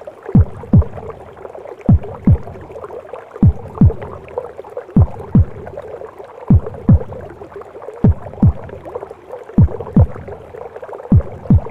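Mother's heartbeat as heard from inside the womb: paired deep thumps, one double beat about every second and a half, over a steady whooshing wash of womb noise.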